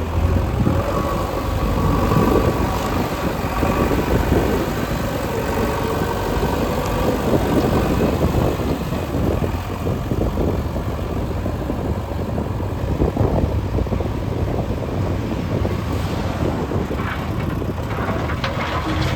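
Diesel construction machinery running steadily, with a whine that wavers in pitch during the first several seconds and a brief rattle of clicks near the end.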